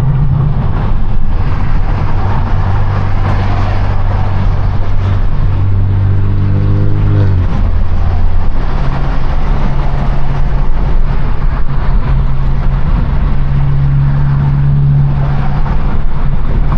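Straight-piped BMW F32 428i's turbocharged four-cylinder exhaust droning loudly while driving. The engine note rises briefly a little past halfway, then drops and settles back into a steady drone.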